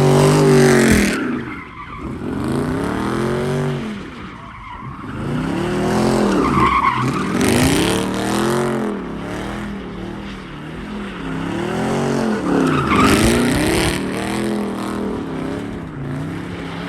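A car doing donuts: its engine revs up and down in repeated swells every couple of seconds while its tires squeal and skid.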